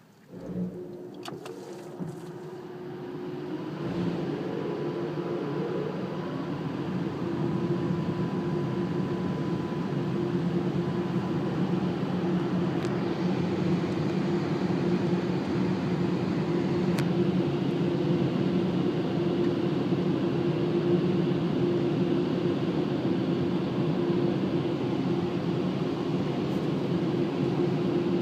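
Automatic car wash air-dryer blowers running, heard from inside the car: a steady rushing drone with a low hum. It builds up over the first few seconds, then holds steady.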